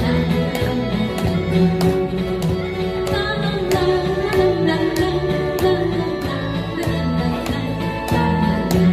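Live acoustic guitar band music with a steady beat, sustained chords and a held melody line.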